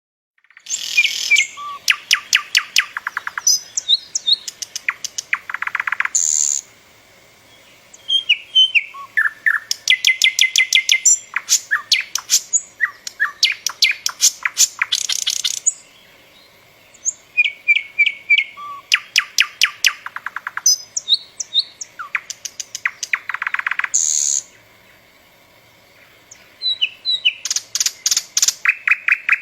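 A songbird singing long phrases of fast repeated notes and trills, each phrase running for several seconds, with short pauses between them.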